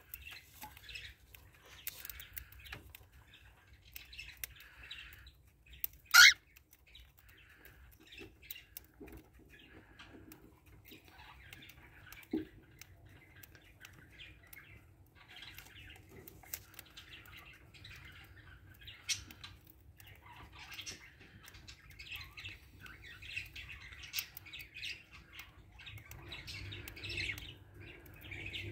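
Birds chirping and chattering on and off, with one loud, short squawk about six seconds in.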